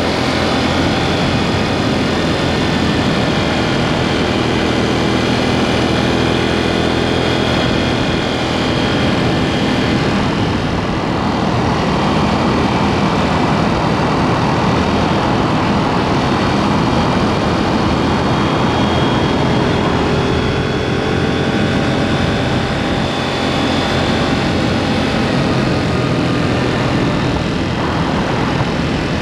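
KTM 790 Duke's parallel-twin engine running at road speed through an aftermarket SpeedPro Cobra SPX exhaust, heard from close by under the seat. The engine note shifts pitch a couple of times as the revs change, with a rougher, noisier stretch in the middle.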